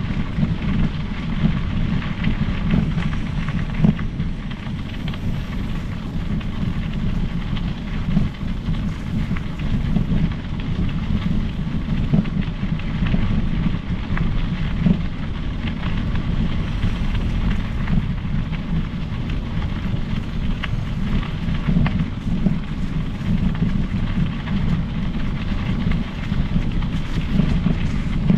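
Steady wind rumble on the microphone and rolling tyre noise from a Specialized Epic Pro mountain bike being ridden along a trail, with many small clicks and rattles throughout.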